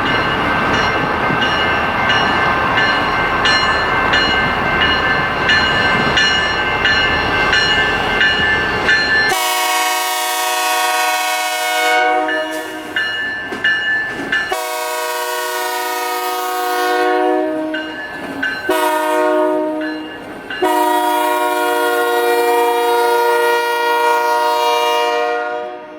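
BNSF transfer train rolling past with steady wheel-on-rail noise and faint regular clicks, then the locomotive's air horn sounding a chord in several long blasts, the longest near the end.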